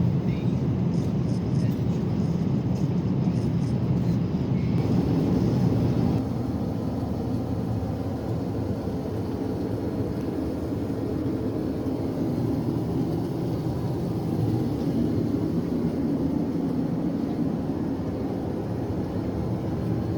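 Steady low drone of airflow and engines inside an Airbus A350-900 airliner cabin. The level drops slightly and the sound changes about six seconds in.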